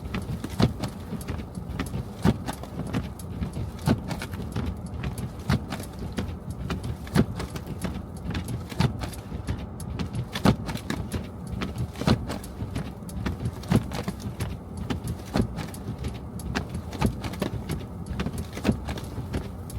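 Car driving on snowy streets: a steady low road rumble with many small irregular clicks and knocks, and a louder knock about every second and a half.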